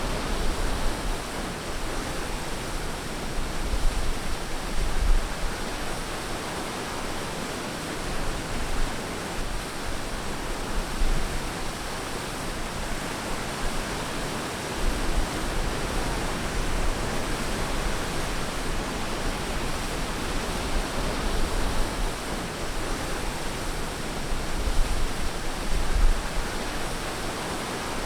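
Ocean surf washing onto a beach: a steady hiss of breaking waves, with low rumbles swelling up a few times.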